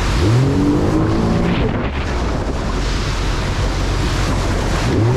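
Jet ski engine revving up and easing off over rushing water spray and wind on the microphone. The engine pitch rises just after the start and drops away within two seconds, then climbs again near the end.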